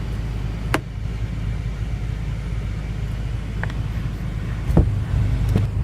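BMW M5 (F10) twin-turbo V8 idling as a steady low rumble heard inside the cabin, with a few sharp clicks and knocks, the loudest about five seconds in.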